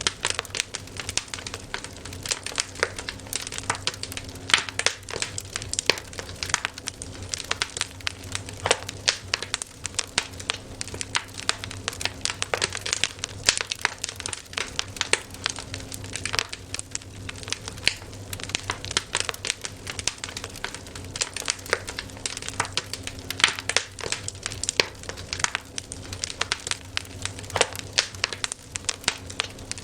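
Campfire crackling: burning wood popping and snapping irregularly, several sharp cracks a second, with no let-up.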